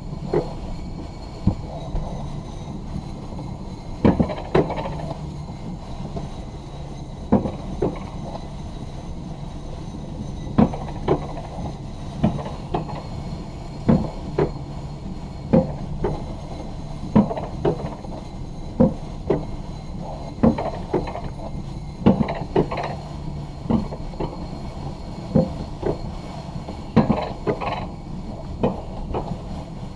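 Alpine coaster sled hauled up the lift on its steel-tube track: a steady low rolling rumble with a sharp click about every second, unevenly spaced.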